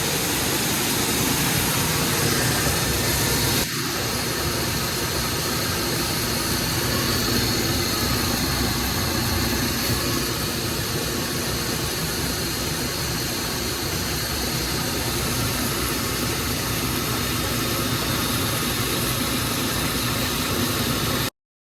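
Rice grain dryer and its loading machinery running steadily while paddy is loaded, a loud even mechanical hum. It breaks briefly a few seconds in and cuts off abruptly just before the end.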